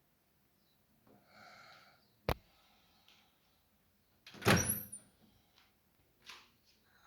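Kunft 20 l microwave oven door handled: a sharp click about two seconds in, then a loud thump with a short rattle about halfway through as the door shuts, followed by a couple of light clicks.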